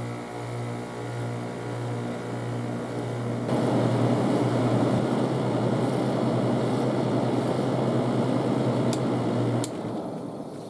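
Air conditioner running on its low setting: a steady hum, joined about three and a half seconds in by a louder rush of fan air that cuts off suddenly near the end.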